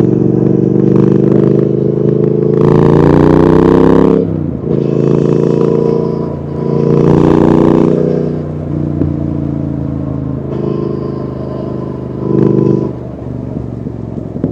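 Triumph Speed Twin 1200 parallel-twin engine through a Vance & Hines aftermarket exhaust, idling and being revved: a long rev about two and a half seconds in, another a few seconds later, and a short blip near the end, dropping back to idle after each.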